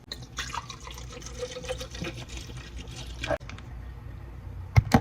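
Water being poured or run into a container for a drink, splashing and filling for about three seconds, followed by two sharp knocks near the end.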